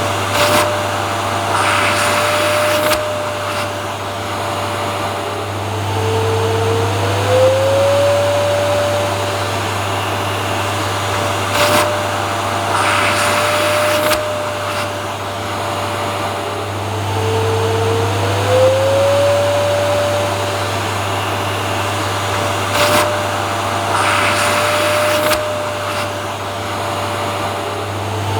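Vacuum cleaner motor running continuously with a steady low hum and a whine that about every eleven seconds dips in pitch and glides back up, with brief louder rushes of air in between; the same pattern repeats, as a loop would.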